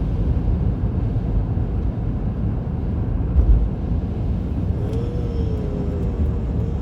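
Road noise inside a moving car: a steady low rumble of engine and tyres, with one heavy thump about three and a half seconds in as the car hits a pothole.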